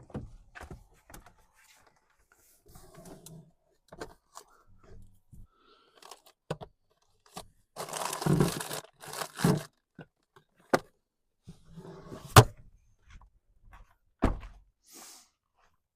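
Camp cooking gear being handled and set down: scattered knocks, clicks and scrapes, a rustling stretch about eight seconds in, and a sharp knock about twelve seconds in.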